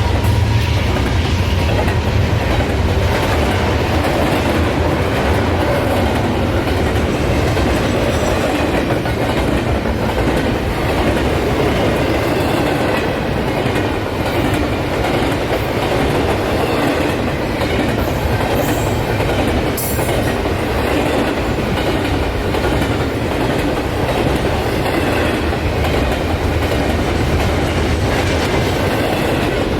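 A train rolling past steadily, with the continuous rumble and clatter of its wheels and cars on the rails, unbroken for the whole stretch.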